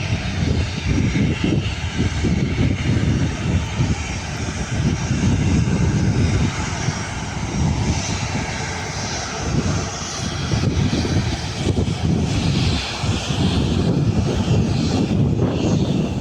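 Jet noise from an Airbus A330-300 taking off: a steady, loud, deep rumble that wavers and crackles unevenly, with a hiss above it.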